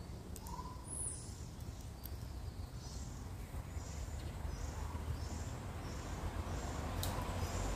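Birds calling: a run of short high chirps repeating every half second or so, and a short lower note about half a second in. A low rumble underneath grows louder toward the end.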